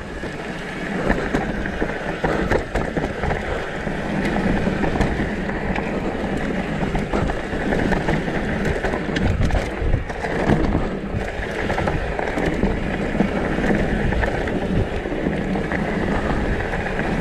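Trek Session downhill mountain bike rolling fast down a dirt trail: a steady rush of wind over the microphone, with tyre noise and scattered small clicks and rattles from the bike.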